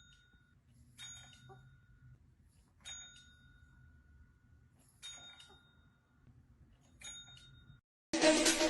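A small bell dinging five times, about every one to two seconds, each ding a clear ringing tone that fades within a second or so.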